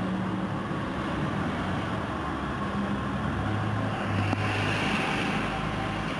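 Car engine running as a white sports car drives off through an underground car park, with a steady low hum that grows a little louder between about three and a half and five seconds in.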